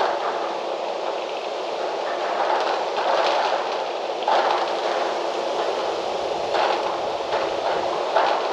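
Strong wind rushing through trees, a continuous rustling roar that swells in gusts a few times.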